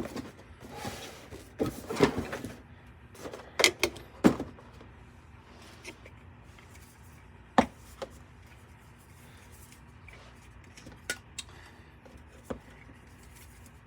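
Boxed toys and packaging being handled and set down: rustling for the first couple of seconds, then scattered light knocks and clicks.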